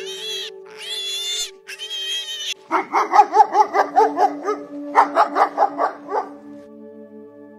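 A young hedgehog's high-pitched squeaking calls, then a dog barking in two quick runs of yapping barks, several a second, from about three seconds in to about six. Background music plays throughout.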